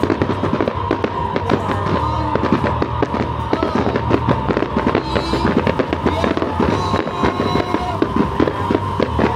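Firecrackers going off in a dense, continuous crackle of rapid bangs, with music playing underneath.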